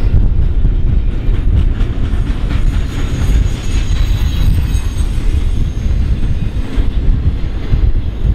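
Double-stack container freight train rolling past: a loud, steady low rumble of the well cars on the rails, with clicking of wheels over the track. A faint high wheel squeal comes in around the middle.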